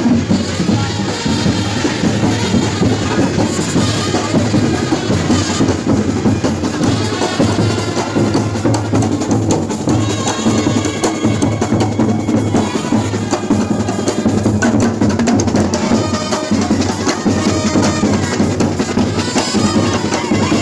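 Loud, continuous percussion music led by drums, with a steady rhythmic beat.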